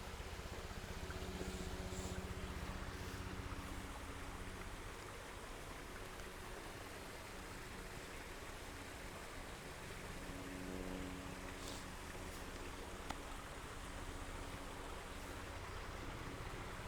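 Water running steadily down a waterfall, heard as an even rushing, with a low hum that fades in and out.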